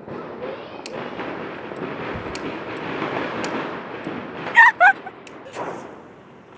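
Scattered sharp pops and bangs of Diwali firecrackers over a steady hiss. About four and a half seconds in, a dog gives two short, loud yelps in quick succession.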